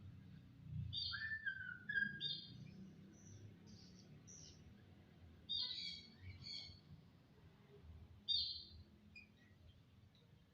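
A jalak (starling) singing in short separate phrases of whistled notes and quick chattering notes, with pauses between them.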